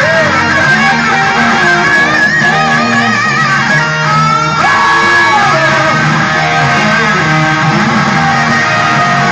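Blues-rock electric guitar playing over a bass line, with held notes wavering in vibrato and a note sliding down about halfway through.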